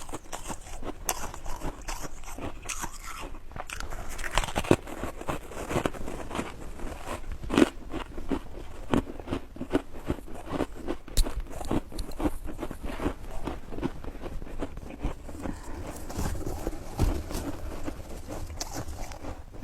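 Chunks of ice being bitten and chewed close to the microphone: a dense run of crunches and sharp cracks, a few of them much louder than the rest.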